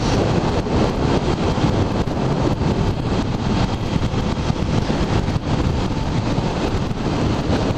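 Heavy wind buffeting on a motorcycle-mounted GoPro's microphone while riding a Suzuki SV1000S, with the bike's running and road noise mixed in. It is a loud, uneven rumbling rush with no let-up.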